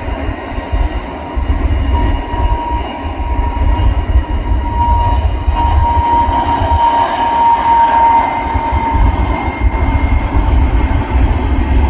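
Jet airliner engines running with a steady whine that swells in the middle, over a continuous low rumble.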